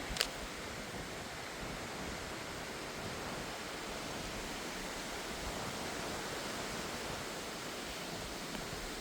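Steady rushing of a small stream's flowing water, with a single brief click just after the start.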